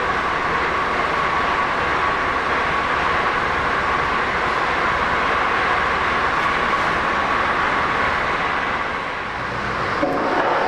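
Railway train running: a steady rolling noise with a steady high whine, changing briefly near the end.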